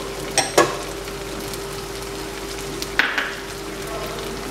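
Goat-brain masala sizzling in hot oil in a wok, with a steady hiss over a faint steady hum. A couple of short utensil clicks against the pan come about half a second in, and another comes near three seconds.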